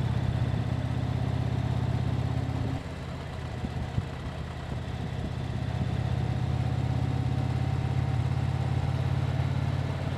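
Motorcycle engine running steadily under way. It eases off about three seconds in, then pulls again a few seconds later.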